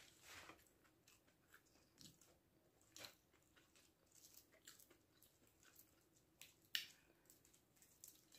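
Faint eating sounds: crunchy chewing of crispy battered, deep-fried vegetables, with small crackles as a plastic-gloved hand breaks pieces off. The sharpest crackle comes about seven seconds in.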